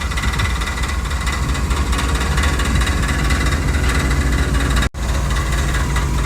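An engine idling steadily, cut off abruptly for an instant about five seconds in.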